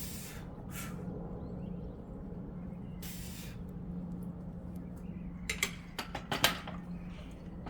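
Three sharp hissing exhalations from a lifter straining through a back squat set. These are followed, about five and a half seconds in, by a quick cluster of clanks and knocks from the barbell, the loudest just after six seconds.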